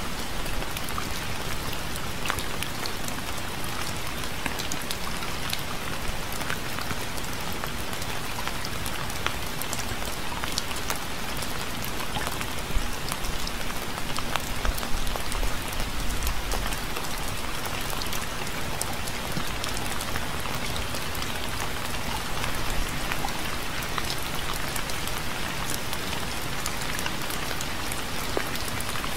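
Steady rain falling: a dense, even hiss with many separate drops ticking through it, and a brief low rumble about halfway through.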